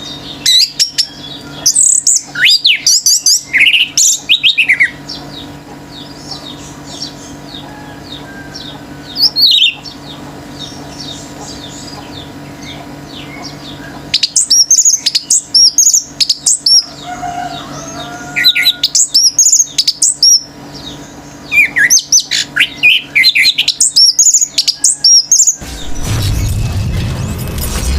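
Orange-headed thrush singing loud bouts of fast, varied high notes, with pauses of a few seconds between phrases, over a steady low hum. Near the end the song stops and a louder, noisier sound takes over.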